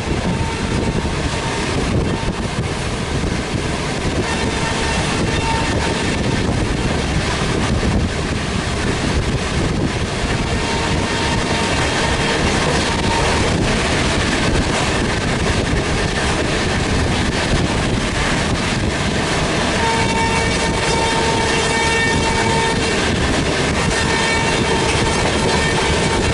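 Train running at speed: a steady rumble and rush of wheels on track, with a train horn sounding in intermittent long blasts that grow stronger in the last quarter.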